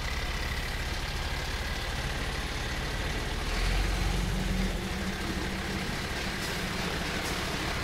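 Garbage truck engines idling and running steadily, with one engine rising louder for about a second around the middle.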